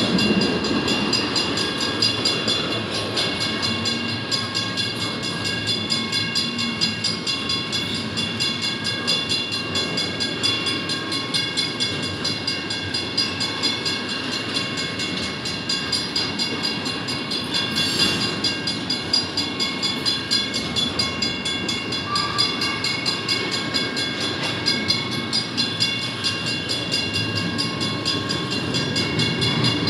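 Double-stack intermodal train's well cars rolling past, steel wheels running steadily on the rails with a continuous clatter. A steady high ringing tone runs over it throughout.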